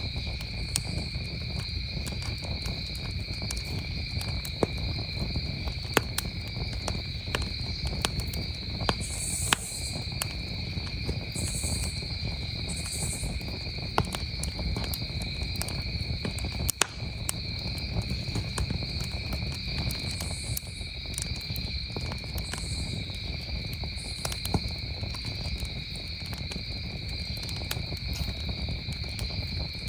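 Campfire crackling, with scattered sharp pops over a low steady rumble, while crickets keep up a continuous high-pitched chorus.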